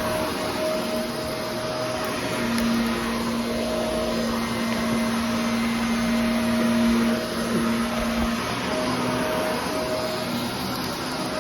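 Vacuum cleaner running steadily, with a low hum in its note that fades in and out.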